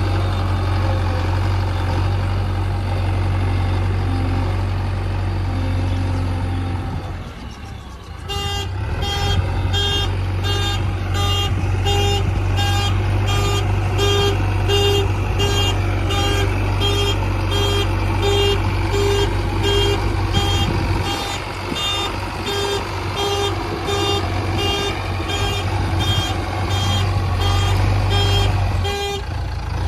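Heavy diesel engine running steadily. It drops away briefly, then picks up again at about eight seconds in, when a rapid repeating series of short pitched tones starts over it, a little under two a second, stopping just before the end.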